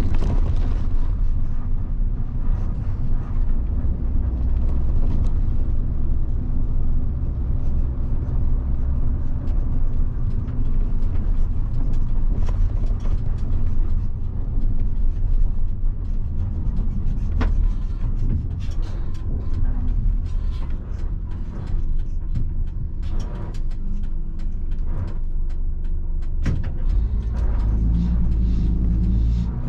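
1990 Mitsubishi Fuso bus's 7.5-litre diesel engine running steadily on the road, with road rumble and scattered short clicks and rattles. The engine note gets deeper and stronger near the end.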